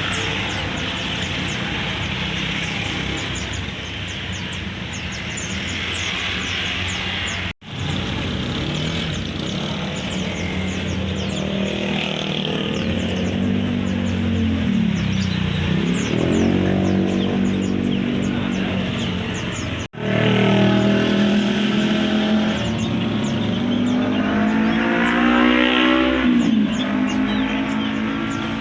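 Road traffic, with motor vehicles running and revving as they pass, their engine pitch dipping and rising. The sound cuts out briefly twice.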